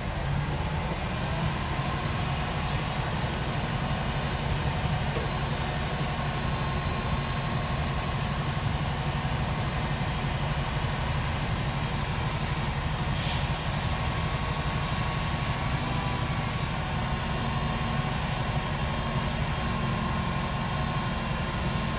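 Heavy diesel engine of earthmoving machinery running steadily with a deep, even rumble, and one short hiss a little past halfway.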